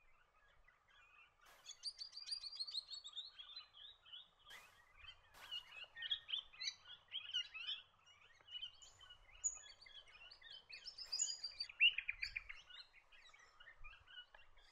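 Swift parrots calling: a busy run of high, sharp chirps and chattering notes, starting about a second and a half in.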